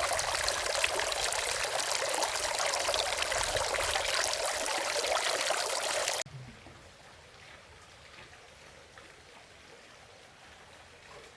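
Water flowing steadily with an even rushing hiss, cut off suddenly about six seconds in, after which only a faint, quiet background remains.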